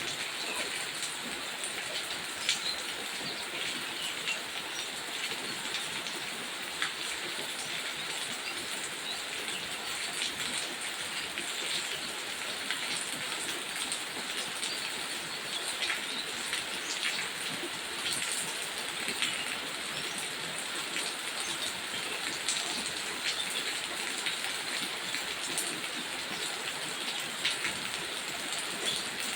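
Steady rain falling on taro leaves: an even hiss with many small drop ticks throughout.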